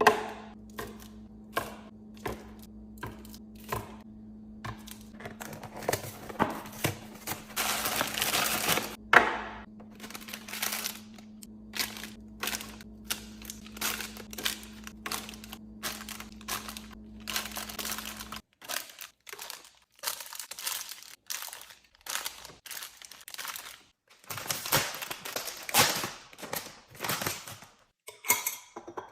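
Plastic packaging crinkling and containers clicking and knocking as groceries are handled and put away in a fridge, with a steady low hum that cuts off abruptly about two-thirds of the way through.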